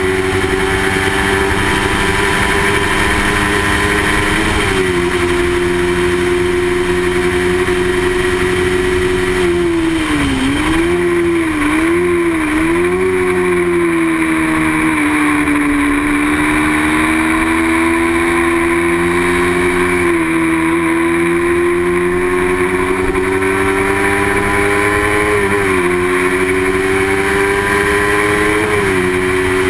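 Small-displacement racing motorcycle engine running hard at high revs, its pitch climbing slowly. It drops sharply at each gear change, about four seconds in and twice near the end, and dips and wobbles several times around the middle.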